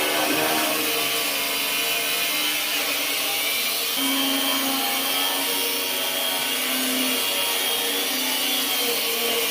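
Angle grinder running and grinding, a steady noise with a whine on top that wavers in pitch.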